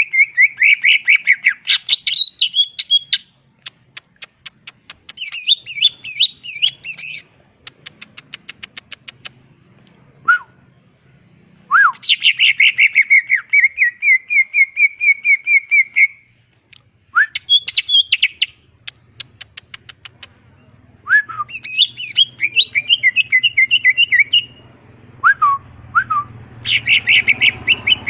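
Greater green leafbird (cucak ijo) singing in bursts of fast chattering trills and rapid repeated chirps, broken by short pauses, with a few single downward-slurred whistles between phrases.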